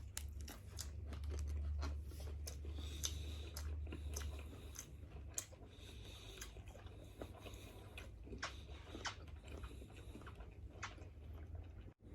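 Close-up chewing and biting of food, with many short wet clicks and smacks scattered irregularly, over a low rumble during the first few seconds.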